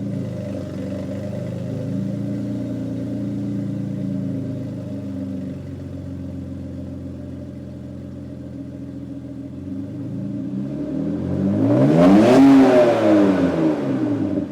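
BMW E46 325Ci's 2.5-litre straight-six, fitted with aftermarket camshafts and a custom exhaust from the headers back, idling through the exhaust. About ten seconds in it is revved once: the pitch climbs for about two seconds to its loudest point, then drops back toward idle.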